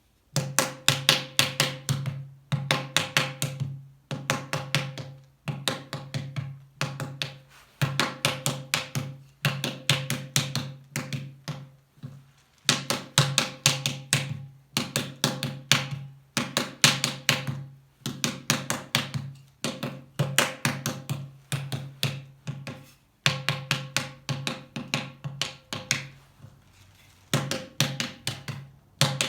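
A pottery paddle rapidly tapping clay over an aircraft nose-cone form, in bursts of quick strikes (about seven or eight a second) with short pauses between them. A low ring sounds under each burst.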